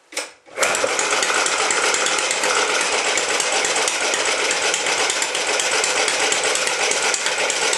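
Small air-cooled single-cylinder Clinton engine, about one horsepower, coughing briefly and then catching about half a second in and running fast and steady with a rapid, even clatter.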